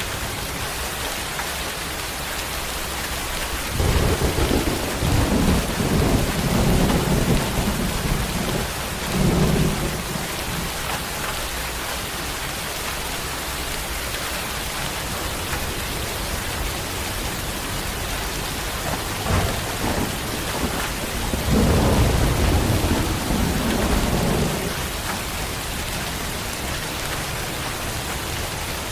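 Steady rain falling, with thunder rumbling twice: a long roll starting about four seconds in and lasting about six seconds, and a shorter one a little past the middle.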